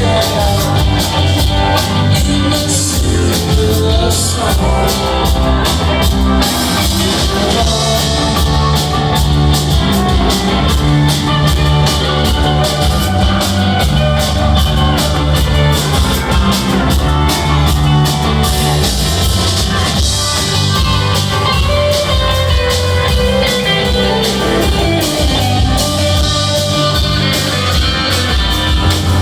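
Live rock band jamming, with electric guitar, bass and drum kit, heard loud and steady through a phone-style recording in the room.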